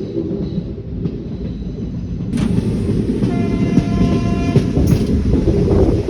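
Train running with a steady rumble of wheels on the track, its horn sounding once for about a second about three seconds in.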